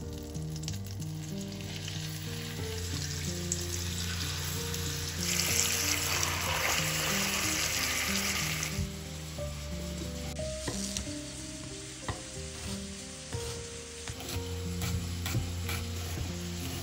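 Raw chicken thighs sizzling as they are laid into hot oil and butter in a frying pan, the hiss loudest from about five to nine seconds in. From about ten seconds in, a chef's knife slicing an onion on a wooden board gives a run of sharp knocks. Soft background music runs underneath.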